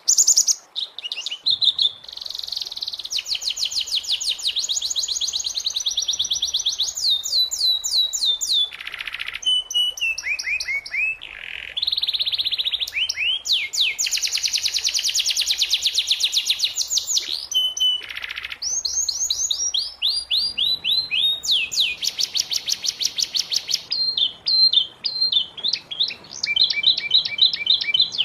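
Domestic canary singing a long, continuous song of fast trills and rolls, switching to a new phrase every second or two, with a few quick falling sweeps.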